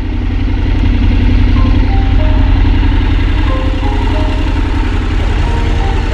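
Motorcycle engine running loud and steady with an even, fast pulse, with short melodic notes of background music over it.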